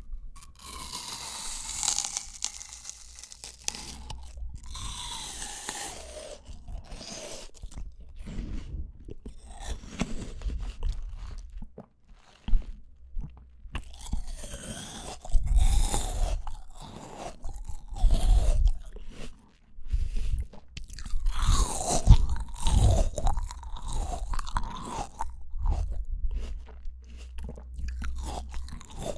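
Close-miked ASMR eating of fresh fruit: crisp bites and crunchy, wet chewing that go on irregularly, with several louder bites through the middle.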